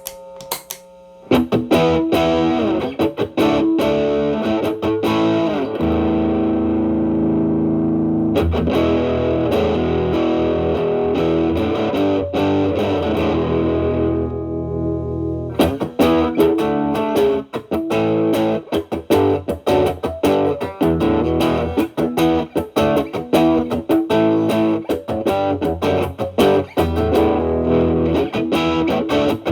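Stratocaster played through a Xotic BB Plus preamp, Ch.A boosting Ch.B with Ch.B gain at 11, into a Marshall Valvestate, giving a distorted electric guitar tone. After a short quiet start it plays held notes and chords, then, about halfway through, a quick run of picked notes.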